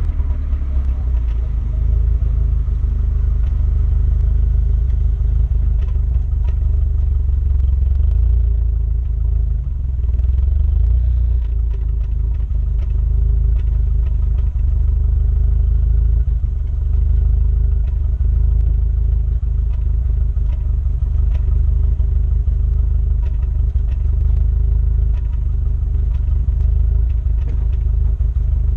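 Renault Mégane R26's 2.0-litre turbocharged four-cylinder engine running steadily: a deep, even rumble with faint light ticks scattered through it. The car has the 'Megane cough', which persists after new injectors and which the owner puts down to an injector fault or misfire.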